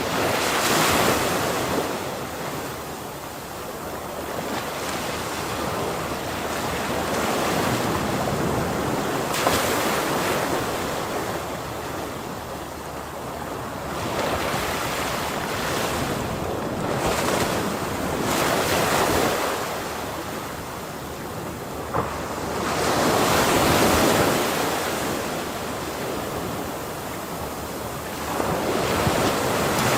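Ocean waves breaking on a shore, with the surf noise swelling and ebbing every few seconds as successive waves crash and wash back.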